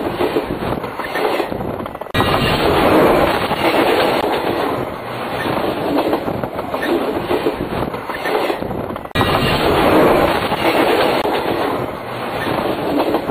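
Railway cars rolling directly over the track at close range: a loud, continuous rumble and clatter of wheels on rails, with a rising and falling rhythm as the wheel trucks pass. The sound jumps abruptly twice, about two seconds and nine seconds in.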